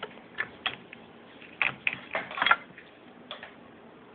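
A string of light clicks and knocks as metal parts of a Singer sewing machine are handled, about seven over three seconds, the loudest about two and a half seconds in.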